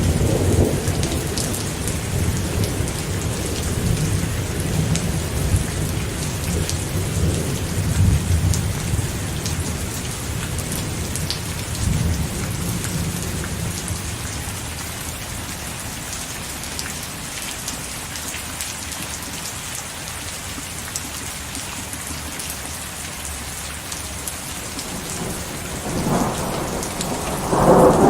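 Steady rain falling with rolling thunder: low rumbles that fade over the first half, then a fresh rumble building near the end.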